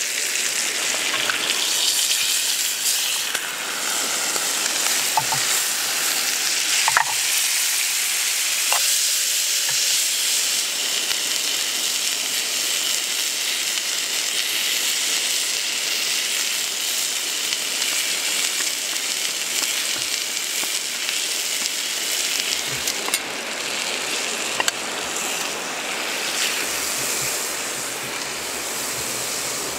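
Food frying with a steady, loud sizzle and a few sharp pops and crackles.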